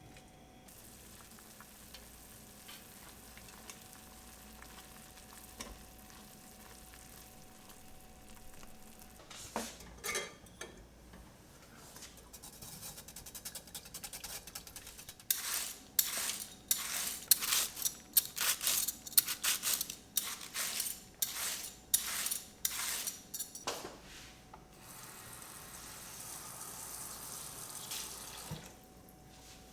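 Kitchen work with utensils against dishes: after a quiet stretch, a run of about a dozen quick, noisy strokes comes roughly once a second.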